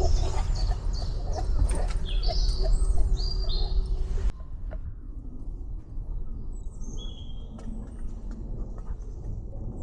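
Small birds chirping and singing, short high calls scattered through. Over the first four seconds a louder jumble of low rumble and small knocks sits under them, cutting off abruptly; after that the birds go on over a quieter low rumble.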